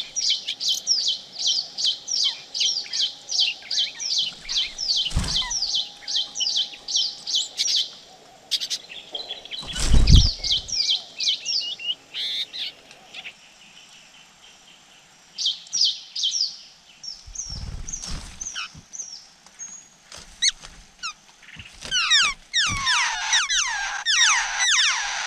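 Laughingthrush nestlings begging at the nest with rapid, repeated high chirps that slide downward, about four a second. The chirping grows loudest and densest near the end, when the parent is back and the chicks gape for food. A few dull thumps break in, the loudest about ten seconds in.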